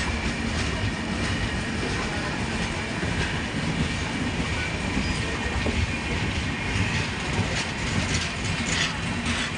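Indian Railways express passenger train passing, its wheels clattering over the rail joints with a steady rumble.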